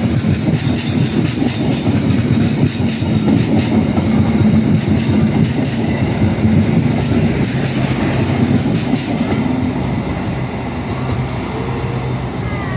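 Stainless-steel passenger coaches rolling past close by, their wheels clicking over the rail joints. About ten seconds in the clicking stops and the train's rumble fades as it moves away.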